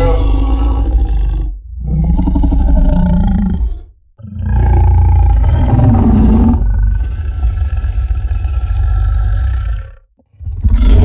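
Designed monster-roar sound effect for Mokele-Mbembe: three deep roars with a heavy low rumble beneath. The first two are about two seconds each, and the third is long, about six seconds.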